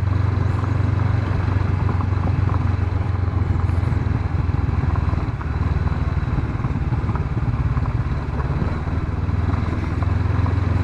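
Honda CB500X's parallel-twin engine running steadily as the motorcycle is ridden, dipping briefly about halfway through.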